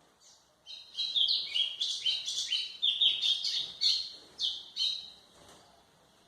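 Golinha (white-throated seedeater) singing one fast, varied phrase of short, high whistled notes that step up and down in pitch, starting under a second in and lasting about four seconds.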